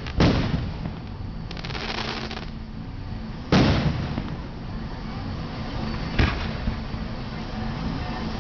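Aerial fireworks bursting: a loud bang just after the start, a spell of crackling about a second and a half in, another heavy bang about three and a half seconds in and a sharper one about six seconds in.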